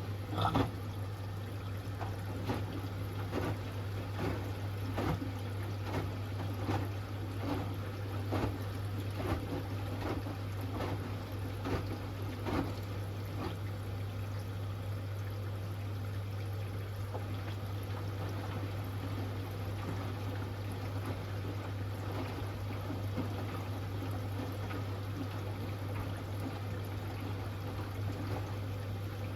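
Hoover Axi 10 kg front-loading washing machine mid-cycle, water pouring and trickling in the drum over a steady low hum. Uneven splashes come thick in the first half, then the water noise settles and evens out.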